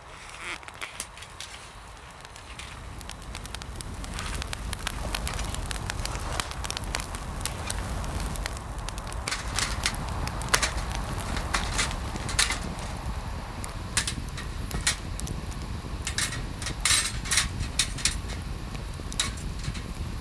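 Wood fire burning in a fire pit, crackling with many sharp, irregular pops. A low rushing grows louder after the first few seconds.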